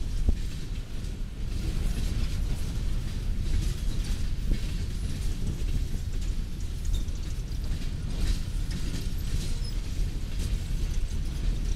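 Coal gondolas of a freight train rolling past close by: a steady low rumble of steel wheels on the rails, with scattered clanks and squeaks from the cars' trucks and couplers.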